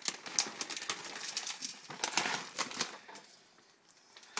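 Bird seed being added to a lard-filled coconut-shell feeder: a dense run of small crackles and patters that thins out about three seconds in.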